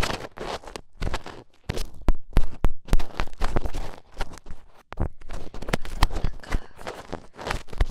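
Close-miked ASMR ear-cleaning sounds: an ear pick scraping and tapping at a microphone's ear, in a dense, irregular run of sharp clicks and rasping scratches.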